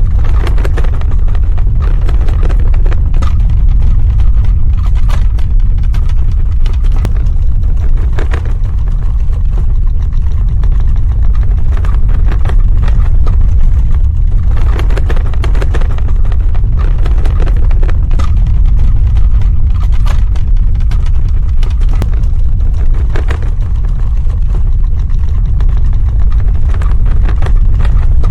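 Earthquake sound effect: a loud, continuous deep rumble with irregular crackling and rattling over it.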